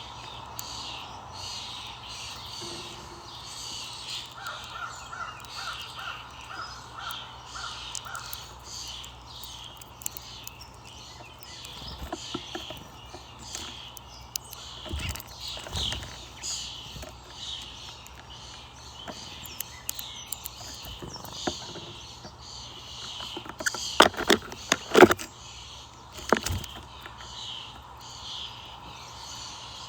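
Birds calling, with a quick run of about seven evenly spaced calls about four seconds in, and a cluster of loud sharp knocks a little after the twenty-second mark.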